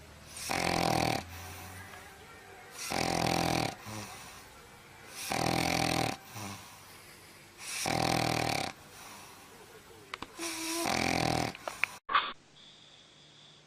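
A sleeping dog snoring loudly: five snores, each under a second long, about two and a half seconds apart. Near the end the snoring cuts off suddenly.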